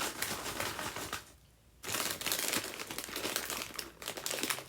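A bag of kettle chips crinkling as it is handled, in two spells of crackling separated by a short pause about a second in.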